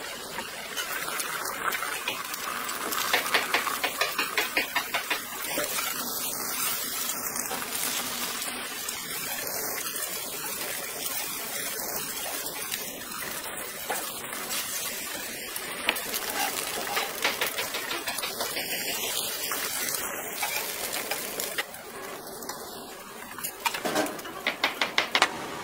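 Beaten egg batter sizzling in oiled frying pans as a rolled omelette cooks, a steady hiss. Clusters of quick clicks from a metal utensil against the pans come about three seconds in and again near the end.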